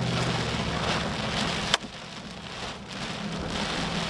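Heavy rain pelting a moving car, with a steady low vehicle hum underneath. A sharp click comes a little under two seconds in; the noise is quieter for a second or so after it, then builds again.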